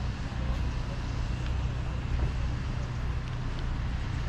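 Steady low rumble of road traffic, with a general outdoor hiss over it.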